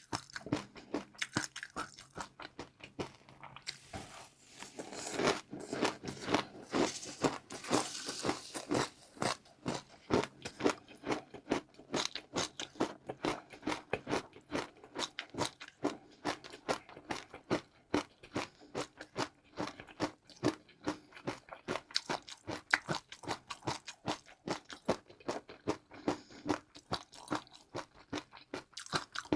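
Close-miked chewing of crunchy food, with rapid crisp crunches several times a second. The crunching is densest and loudest a few seconds in.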